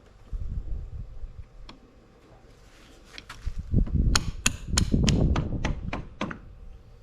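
Hand tool tapping on metal engine parts: a run of about eight sharp taps, roughly three a second, starting about four seconds in, with duller knocks of parts being handled around them.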